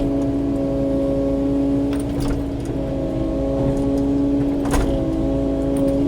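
Kubota KX080-4 excavator's diesel engine and hydraulics running at a steady pitch while it works, with a few short knocks about two seconds in and near the end.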